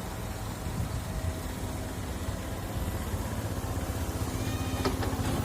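Heavy diesel engine of an excavator running steadily with a low rumble. A faint steady tone joins about a second in and grows stronger toward the end, with a short click near the end.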